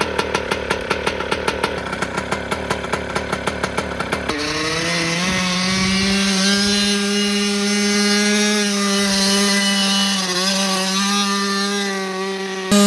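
Mini bike's small engine running at low revs with evenly spaced firing pulses. About four seconds in it opens up to a steady high-revving drone, held near full throttle.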